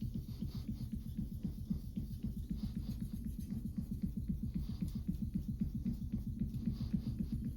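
A kitchen knife being sharpened by hand on a whetstone: fast, even back-and-forth strokes of the blade on the stone.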